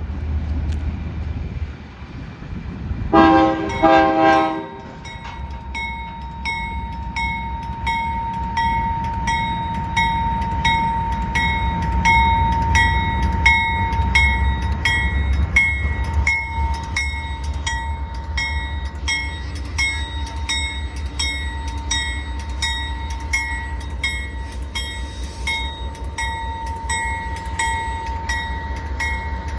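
Train passing with a steady low rumble. Two short horn blasts sound a few seconds in, then regular metallic ringing strikes run about twice a second.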